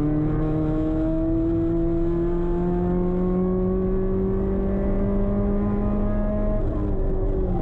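Mazda MX-5 Miata (NC) with a swapped-in 2.5-litre four-cylinder and its rear muffler removed, heard from inside the cabin as the car accelerates down a straight. The engine note rises steadily through a gear, with a brief dip at the very end.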